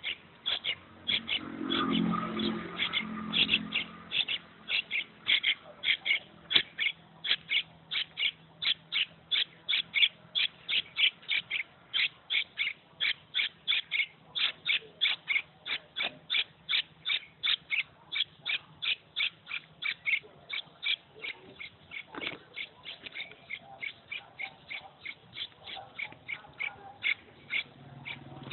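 A maraba bird chick calling over and over with short, high calls, about three a second. A brief lower sound comes in about two seconds in.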